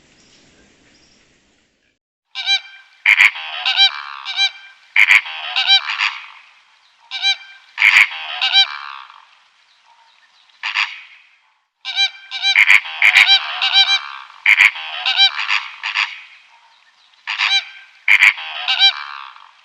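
Loud, harsh honking bird calls in quick clusters of several at a time, starting about two seconds in and repeating.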